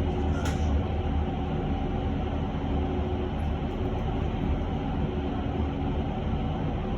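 Inside an electric bus under way: steady low rumble and road noise, with a few faint steady tones running through it. There is a brief click about half a second in.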